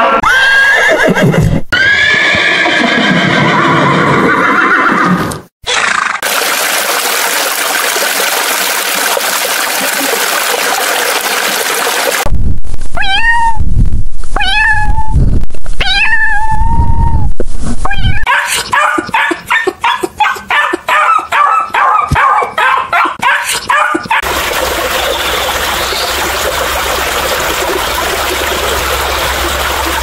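A string of separate animal-sound clips, one after another. It opens with a drawn-out pitched call, then a stretch of steady hiss. In the middle a domestic cat meows four times. After that comes a rapid run of pulses, about three or four a second, and near the end a steady hiss with a low hum.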